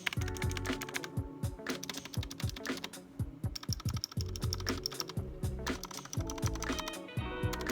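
Typing on a Razer Huntsman Mini, a 60% keyboard with optical switches: a rapid, continuous run of keystroke clicks.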